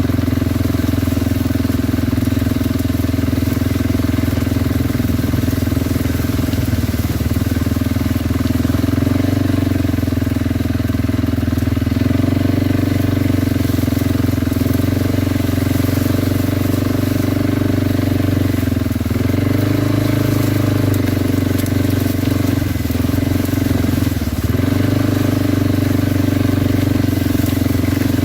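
Kawasaki Brute Force 300 ATV engine running at a steady speed while riding. Its note dips and comes back up a few times in the second half as the throttle is eased off and opened again.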